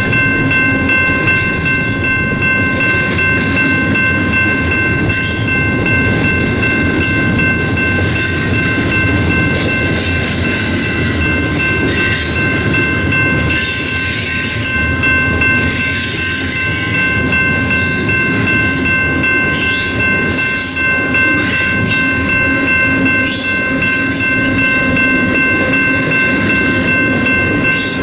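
Loaded freight train's covered hoppers and tank cars rolling past at a grade crossing: a steady rumble of wheels on rail with intermittent rattles and clatter. A steady, high, multi-toned ringing runs underneath, typical of the crossing signal's bell.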